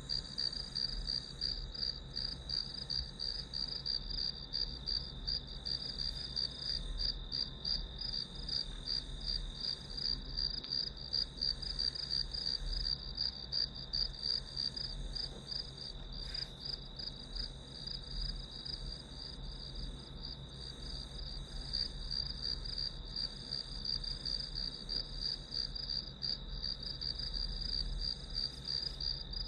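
A chorus of crickets and other grass insects chirping: a high, rapidly pulsing trill with a second, steadier lower tone beneath it, going on without a break.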